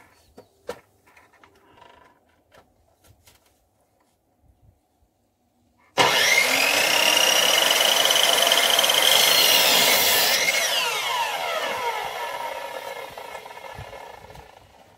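A power saw starts abruptly about six seconds in and runs loud with a high whine, then its pitch drops as it spins down and fades out. Faint clicks and taps come before it.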